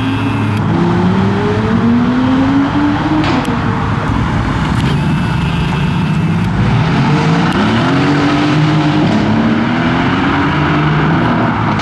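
Performance car engines accelerating past: the engine note climbs steadily for about three seconds, then drops, and a second climbing run follows about halfway through.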